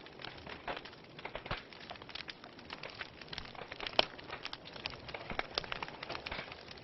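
Wood fire in a fireplace crackling: irregular sharp pops and snaps of burning logs over a low hiss, with one louder pop about four seconds in.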